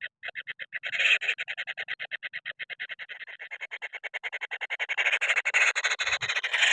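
Kingfisher chicks begging for food with fast, raspy, repeated calls, about ten a second. The calls grow louder and run together into a continuous harsh racket from about five seconds in, the sign of hungry nestlings.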